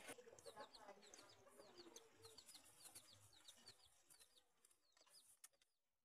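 Faint bird chirping: a quick run of short high chirps that fades out after about four seconds, followed by a few faint clicks.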